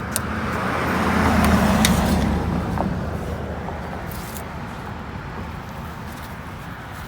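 A motor vehicle passing by: a rumbling road noise that swells to its loudest about two seconds in, then slowly fades away.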